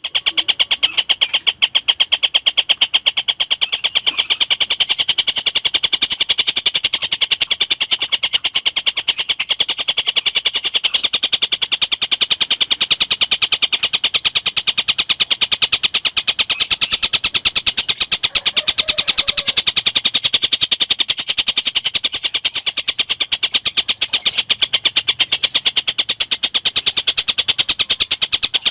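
A tengkek buto kingfisher calling: a rapid, unbroken chatter of sharp, high repeated notes at a fast, tight tempo.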